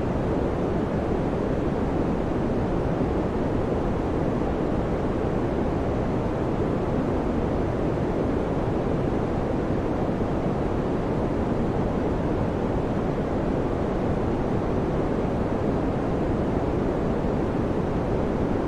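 Electric fan running steadily: an even, deep rushing noise with no hum, rhythm or change.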